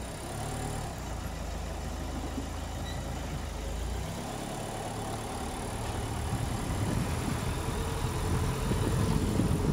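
Car engine running, heard from inside the car. The low rumble changes about four seconds in, and the sound grows louder toward the end.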